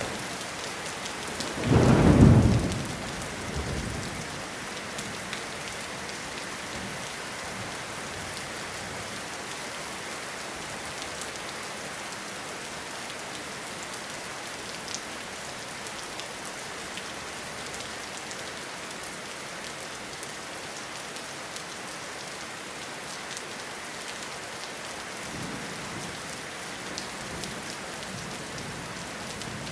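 Steady rain falling in a forest, with a loud clap of thunder about two seconds in that rumbles away over the next couple of seconds. Fainter rumbles of thunder come again near the end.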